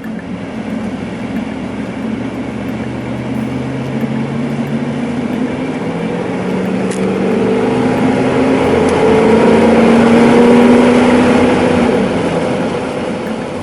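A passing train, a steady mechanical noise with a few held tones that grows louder, is loudest about ten seconds in, then eases off.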